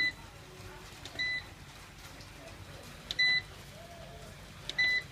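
A solar inverter's control panel beeping as its buttons are pressed: four short electronic beeps at uneven intervals, each after a light button click.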